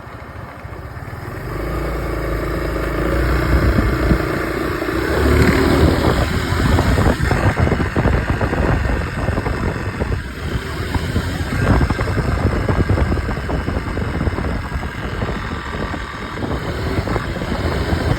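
Honda SH300i single-cylinder scooter being ridden: it pulls away about a second and a half in, its engine note rising for a few seconds. It then runs on at speed with dense, choppy, irregular noise over the engine. This is the noise the rider finds wrong with the scooter while riding.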